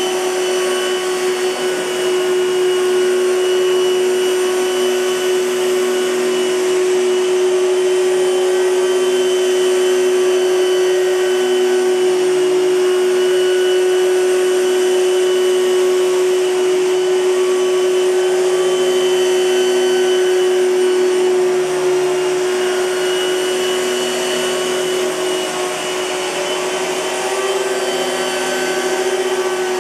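Hoover Futura S3561 Power Team canister vacuum cleaner running steadily, its motor giving a constant whine over the rush of airflow, with slight dips in loudness about two-thirds of the way through.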